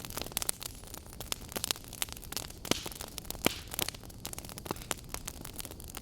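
Log fire crackling: irregular sharp pops and snaps over a steady low rumble of burning, with a couple of louder snaps around the middle.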